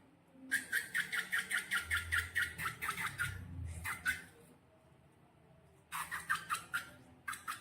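Slime being squeezed and kneaded by hand, making a quick run of wet squelches and small air-bubble pops, about four or five a second; they stop for a couple of seconds, then start again.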